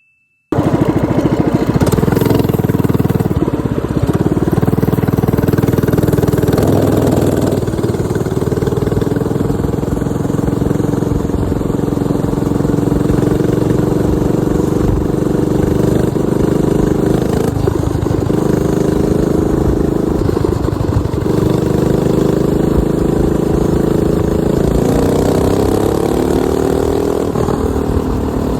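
Coleman MM80 minibike's swapped-in 212 cc single-cylinder four-stroke engine running under way, its pitch rising and falling with the throttle several times and climbing near the end. The sound cuts in suddenly about half a second in.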